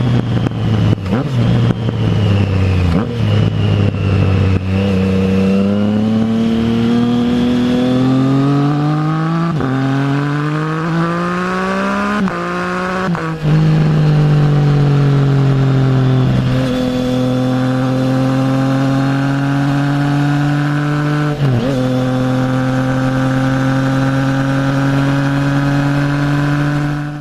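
Triumph Trident 660's inline three-cylinder engine through a full Zard exhaust, crackling at first, then accelerating hard with its pitch rising in steps broken by several quick gear changes. It then settles into a steady run with one more gear change before the sound cuts off at the end.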